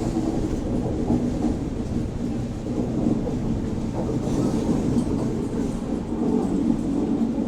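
Passenger train rolling slowly through a station: a steady low rumble of the wheels on the rails.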